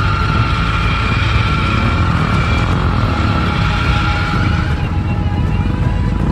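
Off-road 4x4 crawling under engine power, a heavy low rumble with a steady high whine over it that fades out about four and a half seconds in, then a fainter, lower whine.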